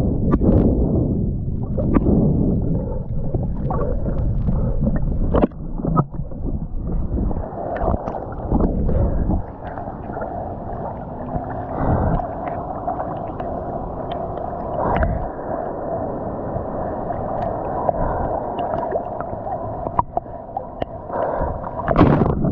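Sea water sloshing and splashing close around the microphone during ocean swimming, with scattered sharp knocks. For most of the stretch the sound turns muffled and dull, then brightens again near the end.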